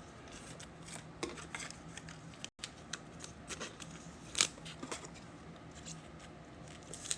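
Trading cards and pack wrappers being handled: scattered small clicks, snips and light rustles over a faint steady hum.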